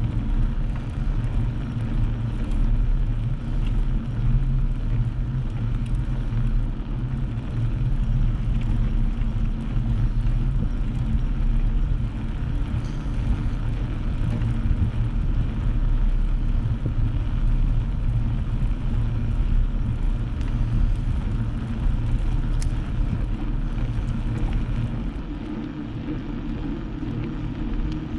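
Steady low rumble of wind buffeting the microphone, mixed with road noise, while riding a bike. It eases off slightly near the end.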